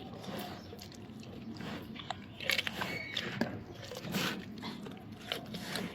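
Young tiger cub chewing raw chicken: irregular bites and crunches, with louder clusters about two and a half seconds in and again around four seconds.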